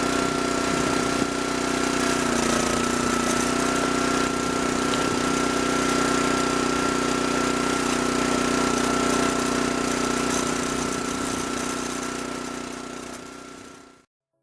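Small petrol engine of a log splitter running steadily. Its pitch dips briefly about two seconds in, and the sound fades out near the end.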